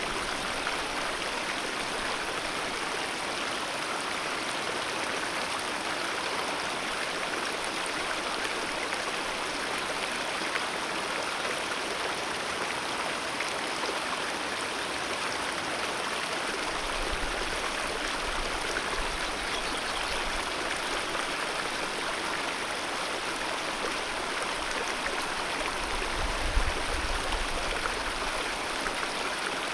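Alpine mountain river flowing steadily, an even, unbroken rush of water. Faint low rumbles come in a little past the halfway point and again near the end.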